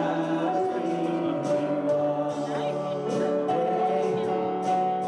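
Church congregation singing a gospel hymn or worship song with instrumental accompaniment, in long held notes.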